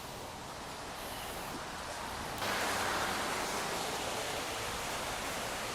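Steady hiss of light rain, stepping up suddenly in loudness about two and a half seconds in.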